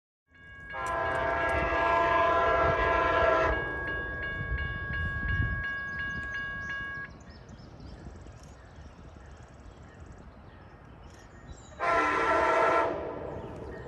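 Locomotive air horn sounding a chord: a long blast of about three seconds, then a short blast near the end, with the low rumble of the train under the first blast.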